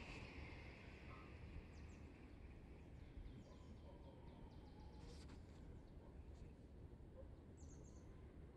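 Small birds chirping faintly: a quick run of short, falling notes about three seconds in and a few high chirps near the end, over a faint low rumble.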